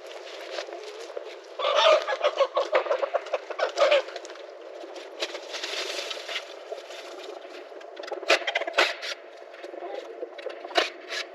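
Chickens clucking, with a denser, louder stretch of clucking from about 2 to 4 seconds in, and a few sharp clicks near the end.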